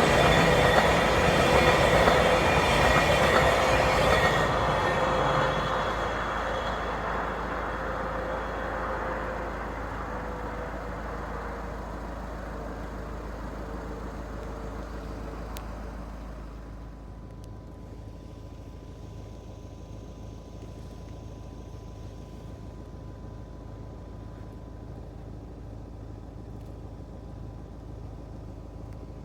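VIA Rail Siemens Charger-hauled passenger train running past and dying away into the distance. Its rumble and a slowly falling tone fade over about sixteen seconds, leaving a faint steady hum.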